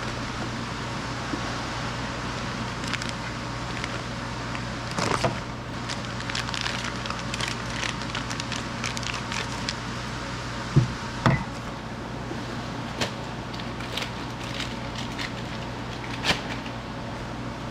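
Scattered clicks and light knocks of tools and parts being handled, over a steady workshop hum. A run of small ticks comes in the middle, two sharper knocks follow close together a little before halfway, and single knocks come later.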